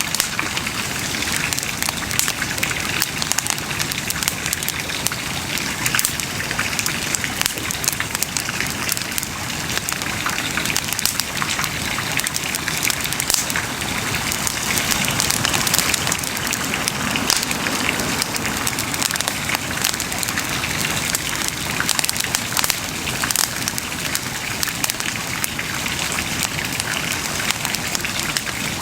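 Wood bonfire burning, crackling steadily with many small rapid pops over a constant hiss.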